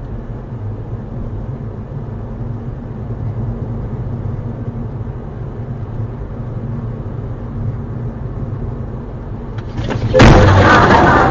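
Steady low drone of a vehicle's engine and road noise heard from inside the car. About ten seconds in, a sudden, much louder noise cuts in and carries on.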